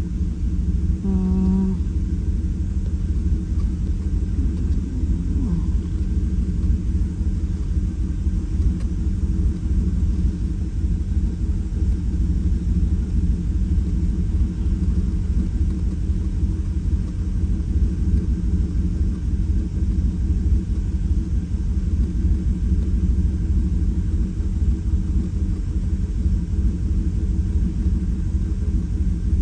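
2018 Chevrolet Silverado engine idling with a steady low rumble while it misfires on one cylinder: the misfire is still present after the injectors were swapped between cylinders.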